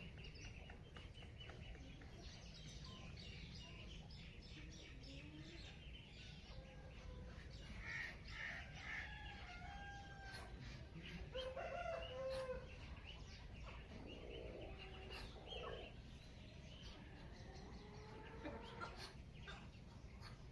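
Early-morning outdoor bird sounds: chickens clucking and a rooster crowing, with small birds chirping, over a low steady rumble.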